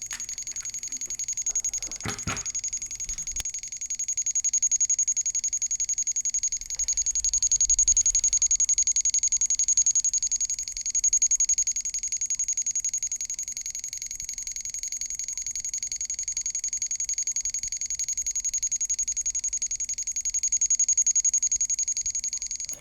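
Star Wars thermal detonator prop electronics beeping: a rapid, continuous run of high-pitched electronic beeps that cuts off abruptly at the end. A single knock about two seconds in.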